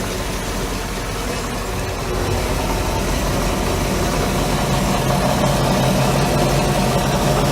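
Bayliner boat's inboard engine running steadily, growing a little louder about halfway through.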